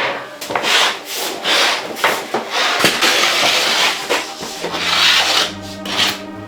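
Hand saw cutting through wood in even back-and-forth strokes, about two a second. Music comes in under it near the end.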